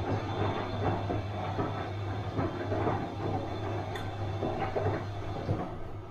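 Bosch front-loading washing machine running mid-cycle: a steady low motor hum under irregular swishing swells as the drum turns, with a light click about four seconds in.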